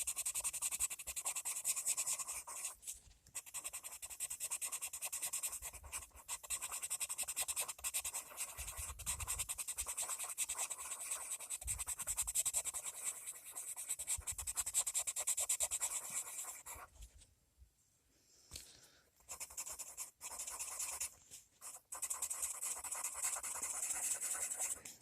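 Colored pencil scratching on paper in rapid back-and-forth shading strokes, with brief pauses about three seconds in and again past the middle.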